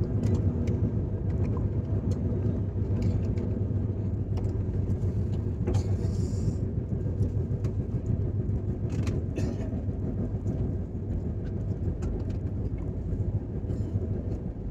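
Steady low rumble of a moving passenger train heard from inside the coach, with a few light clicks scattered through it and a brief hiss about six seconds in.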